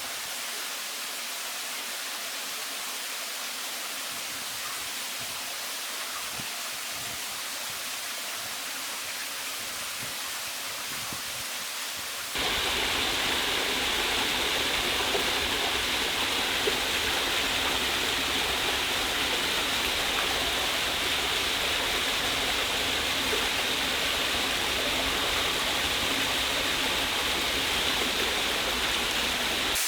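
Steady rush of falling water from a waterfall and stream. About twelve seconds in, it abruptly becomes louder and fuller.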